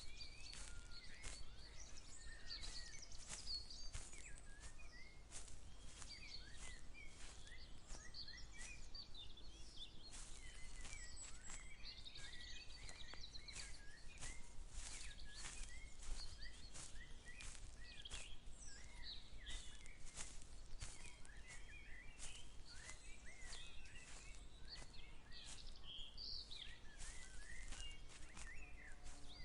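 Many small songbirds chirping and trilling, with a dense run of short overlapping calls. Frequent soft clicks and crackles run underneath, typical of footsteps brushing through plants while walking.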